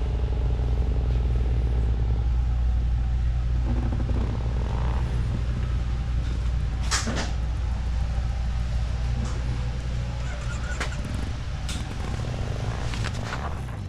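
A steady low engine rumble, with a few sharp knocks about halfway through and toward the end.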